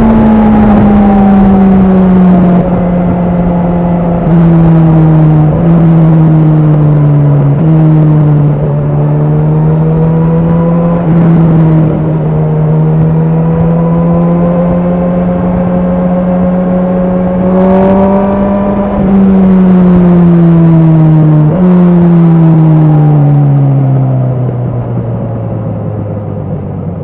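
Honda CB1000R's inline-four engine running under way. Its pitch rises and falls with the throttle and jumps abruptly several times at gear changes. Near the end it drops to a low note and grows quieter as the bike slows.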